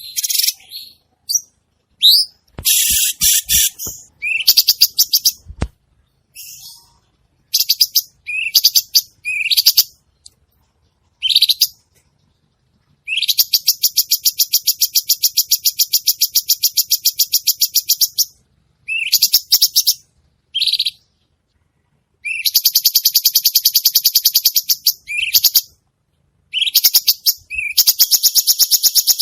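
Cucak cungkok singing in full song: loud, short, sharp rising chirps broken by three long, fast, even trills of several seconds each.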